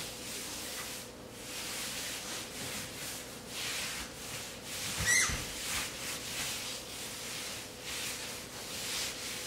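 Repeated hand rubbing strokes against ceramic tile, with a short rising squeak about five seconds in.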